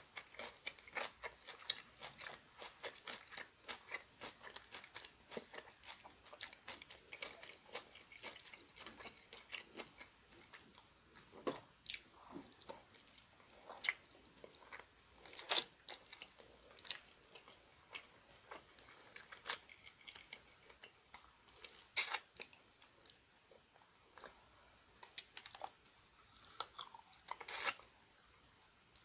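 Chewing and crunching on bone-in chicken feet in spicy broth: a dense run of small mouth clicks for the first ten seconds or so, then sparser, louder crunches and smacks. The loudest is a sharp one about 22 seconds in.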